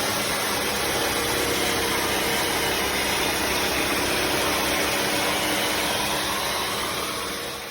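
Bissell CrossWave HydroSteam wet-dry floor cleaner running steadily, its suction motor and brush roll making an even whooshing hum, fading out near the end.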